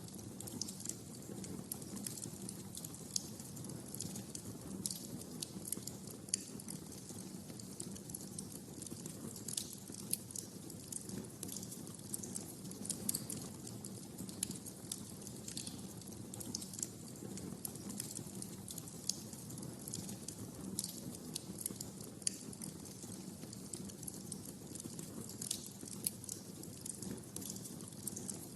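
Wood fire crackling in a fireplace: a dense, irregular stream of sharp pops and snaps over a low, steady rumble of the flames.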